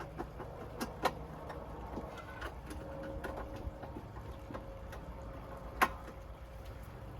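Scattered light clicks and knocks of ceiling-fan hardware and screws being handled and fastened, the sharpest about six seconds in, over a low steady hum.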